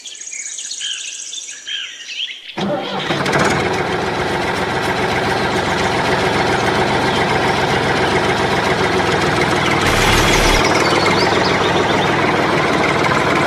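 Birds chirp, then a small motor starts abruptly about two and a half seconds in and runs steadily with an even, pitched hum. A brief low thump comes about ten seconds in.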